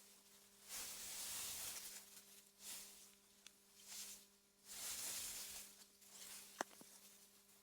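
Wind gusting through meadow grass in soft swells of hiss that rise and fall several times, over a faint steady low hum. A single sharp tick cuts through about six and a half seconds in.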